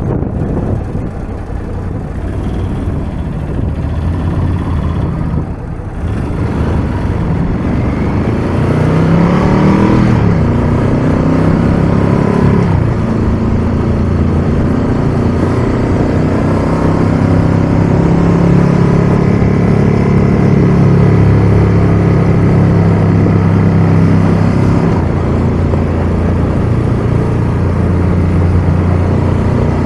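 Ducati Scrambler 1100's air-cooled V-twin engine, first under the rush of wind, then rising in pitch twice as the bike accelerates, and settling into a steady cruising note for the rest.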